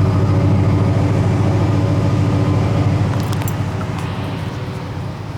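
Ford F-150 pickup's engine idling steadily and sounding good. It grows somewhat quieter after about three seconds.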